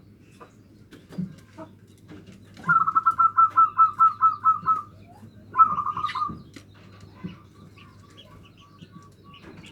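Local zebra dove (perkutut) cooing: a rapid run of about a dozen pulsed notes lasting about two seconds, then a shorter burst, followed by faint, evenly spaced repeated notes.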